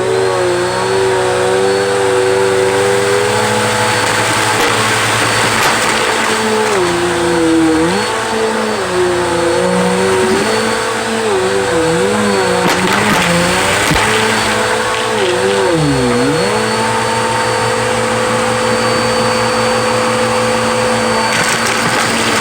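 Vacuum cleaner switched on, its motor spinning up with a rising whine, then running steadily. The motor pitch dips and recovers several times, most deeply about two-thirds of the way through.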